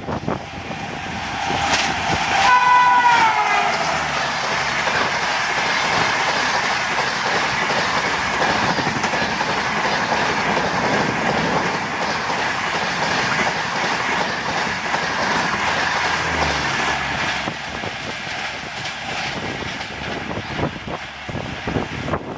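WAP-7 electric locomotive hauling the Rajdhani Express past at about 130 km/h: its horn sounds about two seconds in, dropping in pitch as it goes by. Then the coaches rush past with a steady roar and the quick clickety-clack of wheels over rail joints, easing a little near the end.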